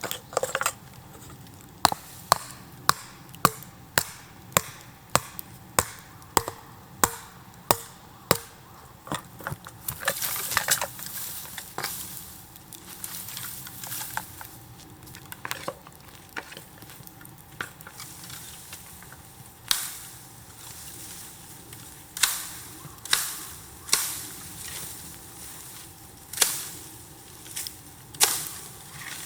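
Repeated sharp chopping strikes of a blade on bamboo, about two a second at first, then fewer and more spaced out, some with a short ringing decay.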